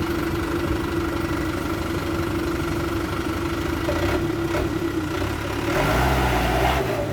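Dump truck's diesel engine running steadily at low revs. About six seconds in it grows louder and deeper with a heavy rumble, as if taking load or revving.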